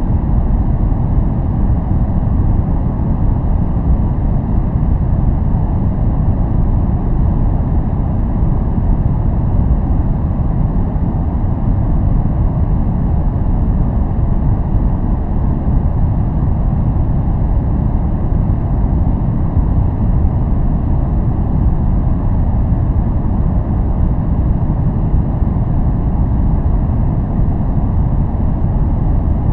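Steady, unchanging noise from a white-noise focus track. It is deep and rumbling rather than hissy, with little treble, and there are no events or changes in it.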